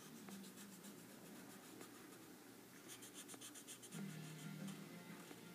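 Faint scratching of a Sharpie marker's broad tip on paper as a beak is coloured in, with a run of quick back-and-forth strokes a little past halfway.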